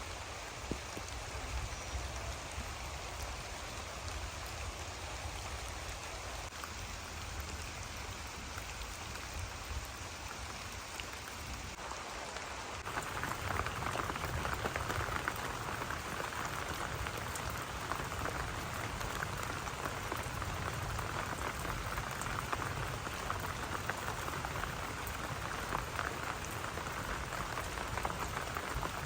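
Steady rain falling, a dense patter of drops that grows heavier about halfway through.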